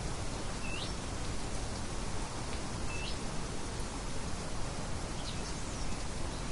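Steady hiss of light wind, with a bird giving two short rising chirps about two seconds apart and fainter calls near the end.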